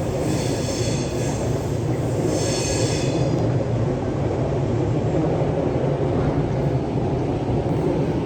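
A train running, a steady rumble with its wheels squealing twice in the first few seconds.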